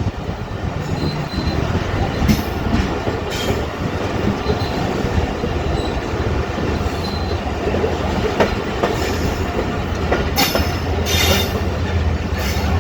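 Passenger train standing at a station platform: a steady low rumble with several short, sharp hisses.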